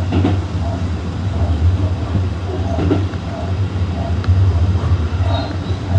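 Tokyu Toyoko Line electric commuter train running, a steady low hum and rumble heard from inside the car.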